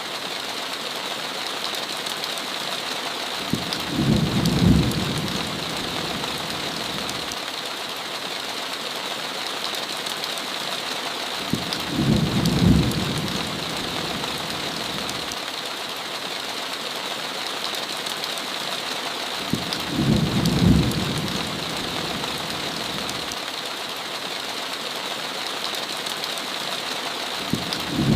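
Steady heavy rain with low, rumbling thunder. The rumbles are evenly spaced about eight seconds apart: three of them, with a fourth starting at the very end.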